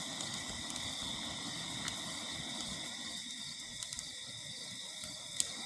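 Ground firework fountain spraying with a steady hiss and occasional snaps, a sharp pop near the end, over crickets chirping steadily.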